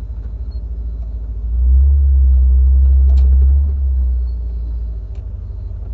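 Triumph TR7's 4.6-litre V8 engine running with a low, evenly pulsing rumble, swelling louder for about two seconds from around a second and a half in, then settling back.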